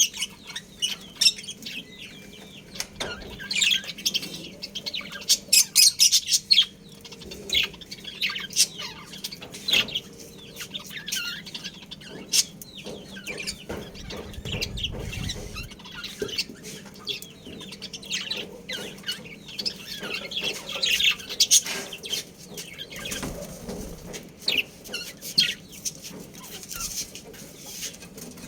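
Budgerigars chirping and chattering, many short high calls overlapping throughout.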